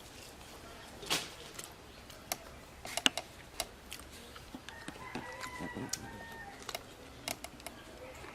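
Close-up eating sounds: scattered sharp clicks and snaps of chewing and mouth smacks, the loudest about three seconds in. A chicken calls faintly in the background for about a second, midway through.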